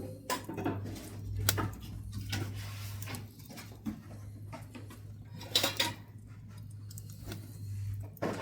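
Pine offcuts burning in a wood stove, crackling with sharp, irregular pops over a steady low hum.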